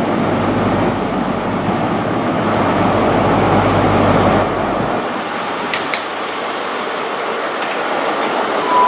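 Class 43 HST diesel power car running as the train draws into the platform. Its deep engine rumble drops away about five seconds in, leaving a lighter steady noise.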